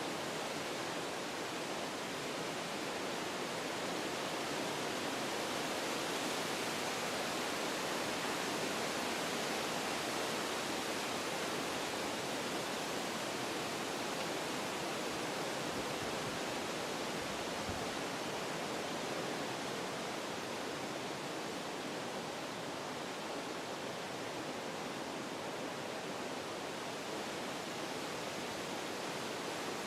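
Wind blowing through forest trees, a steady rushing that swells a little partway through and then eases slightly.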